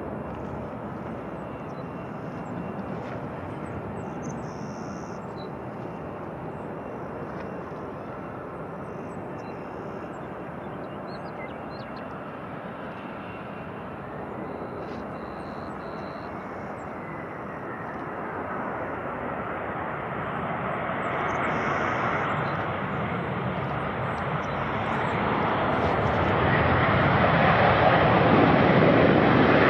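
Jet airliner approaching. Its engine noise is a steady rush that grows louder through the second half and is loudest near the end.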